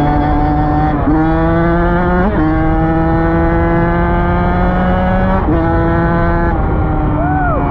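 Dirt bike engine running under steady throttle, its pitch climbing slowly, with abrupt changes in engine note three times. A short rising-and-falling tone sounds near the end.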